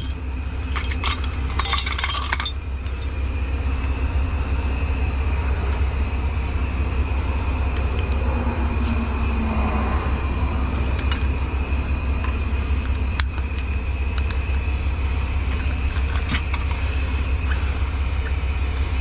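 Heavy truck engine idling with a steady low drone, over which metal tools clink sharply several times in the first couple of seconds, with a few scattered light ticks later on.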